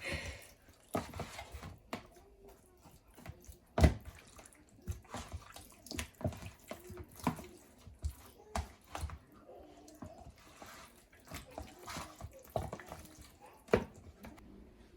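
Raw chicken pieces being mixed with seasoning by hand in a bowl: wet squelching and slapping, with irregular sharp knocks, the loudest about four seconds in and just before the end.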